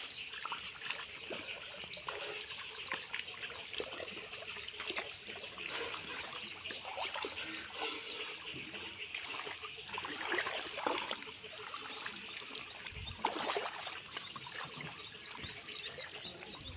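Rainwater trickling and splashing in a flooded lane, with many small irregular splashes.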